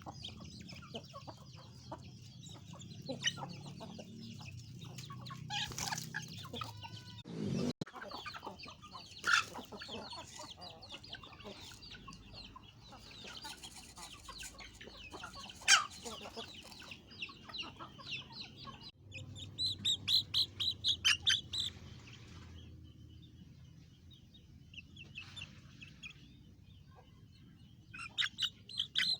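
A flock of chickens clucking and calling while feeding on scattered rice, with a fast run of repeated calls about two-thirds of the way through and another near the end.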